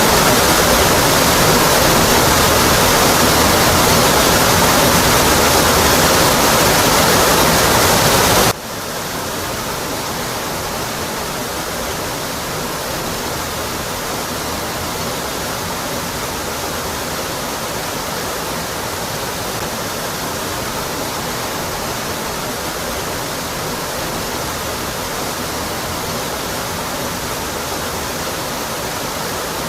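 Waterfall crashing onto rock, a steady full rush with deep rumble. About eight seconds in it cuts suddenly to a quieter, thinner rush with less low rumble.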